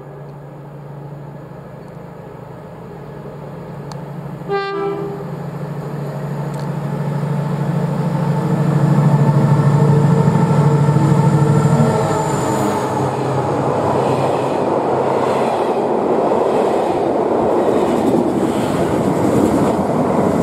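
Class 70 diesel-electric freight locomotive approaching with a steady engine drone that grows louder, sounding one short horn blast about four and a half seconds in. It passes about twelve seconds in, and after that comes the rumble and clatter of its container wagons going by.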